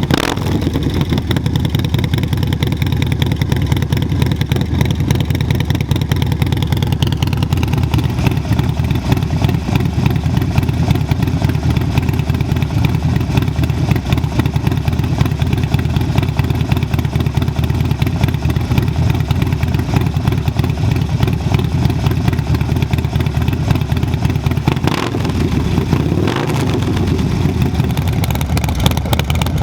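Harley-Davidson Low Rider ST's Screamin' Eagle 131 Milwaukee-Eight V-twin running through an SP Concepts exhaust, with a Cyclerama 483 cam, a deep steady exhaust note. The pitch drops a few seconds in and shifts briefly near the end.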